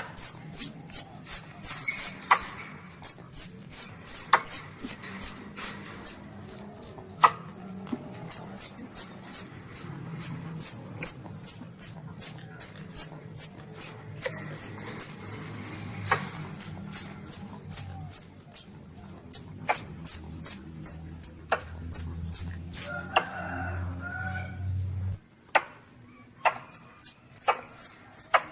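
Young civet (luwak) squeaking: a long run of short, high, falling squeaks, about two a second, used as a lure call for hunting. A low hum underneath cuts off about 25 seconds in.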